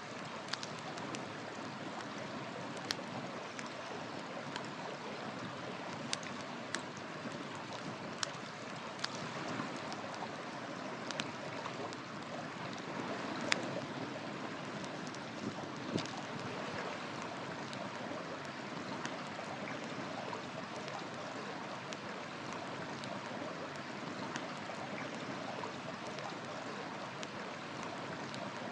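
River water rushing steadily, with a wood fire crackling over it: scattered sharp pops every second or two, the loudest about halfway through.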